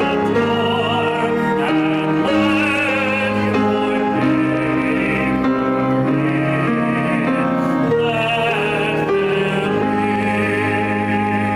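A slow hymn sung in long held notes with vibrato over sustained instrumental chords.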